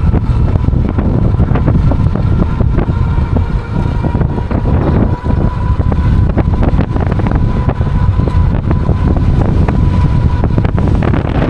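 Heavy wind buffeting the microphone while riding an electric bike, a loud rumbling rush with crackles, over a thin steady whine.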